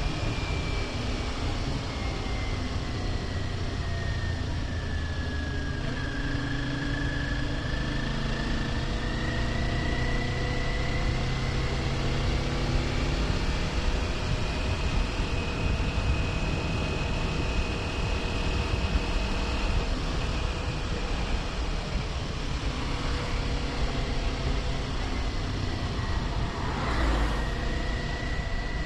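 Kawasaki Ninja 400's parallel-twin engine running at cruising speed, with wind rushing over the bike-mounted microphone. A high whine falls over the first few seconds, rises again and then holds steady, and there is a short rush of noise near the end.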